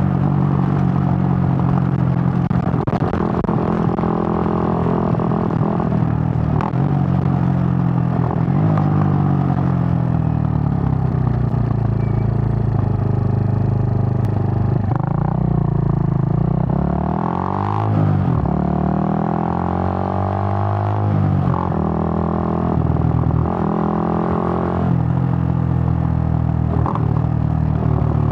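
Suzuki GN125 single-cylinder four-stroke engine running under way. Its pitch holds steady for stretches and shifts up and down several times with throttle and gear changes. Around the middle it falls away and then climbs again.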